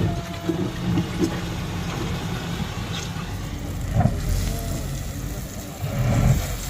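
Heavy vehicle engines running steadily, with a few brief louder sounds about four and six seconds in.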